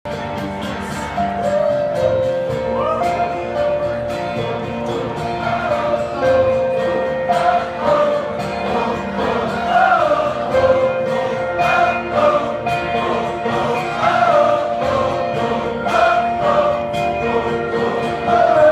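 Live band music with singing, sustained chords under a voice whose words are not clear.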